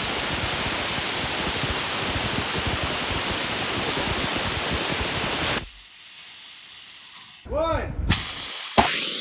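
Small ethanol/oxygen liquid-fuelled rocket engine firing with a steady loud rushing hiss, shutting down abruptly about five and a half seconds in to a fainter hiss. Near the end come brief gliding whooshes and a short loud noise.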